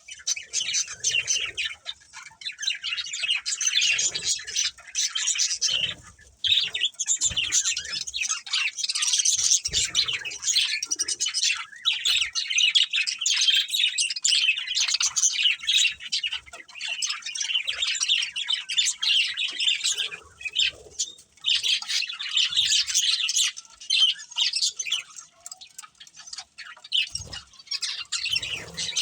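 A pair of budgerigars chirping, fast high chirps going almost continuously with only brief pauses.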